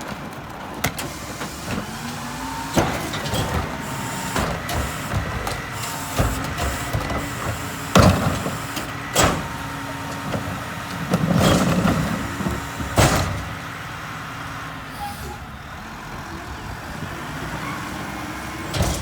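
Mack MRU rear-loader garbage truck running steadily at the curb, with about five sharp bangs and clanks of trash loading into the McNeilus hopper and a longer rattling, grinding stretch a little past the middle.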